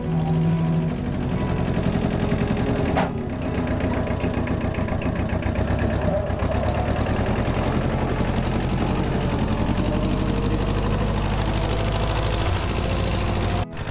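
An engine running steadily at a fast, even idle, with a brief break near the end.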